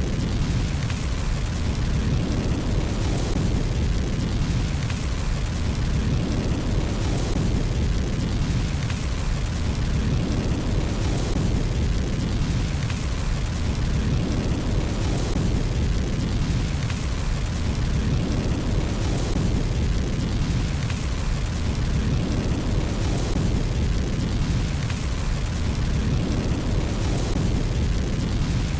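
Crackling fire with a steady low rumble and dense crackles throughout, swelling and easing in a pattern that repeats about every four seconds.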